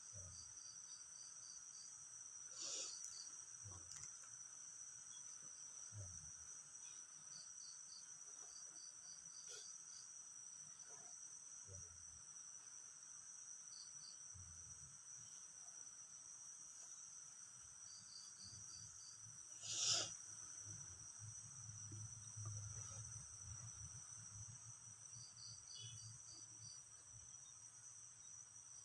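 Faint chorus of crickets and other insects with a steady high chirring and repeated short trills. A single sharp click stands out about two-thirds of the way through, and a low rumble comes in over the second half.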